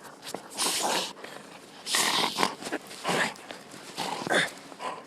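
Dog huffing through its nose in short noisy bursts, about one a second, while holding a ball in its mouth.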